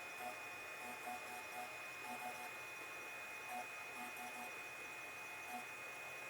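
Old desktop computer running with a steady high-pitched whine over a light hiss, with short chirping blips coming irregularly in ones, twos and threes.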